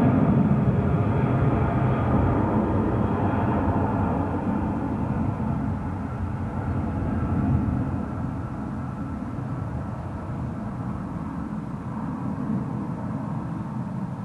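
Airbus A330-300 twinjet's engines, heard as a loud jet rumble that fades steadily as the aircraft moves away.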